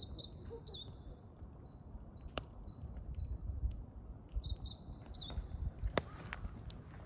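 Wild songbird singing two runs of quick repeated high chirps, over a wood fire crackling with scattered sharp pops, the loudest about two and a half and six seconds in, and a low rumble underneath.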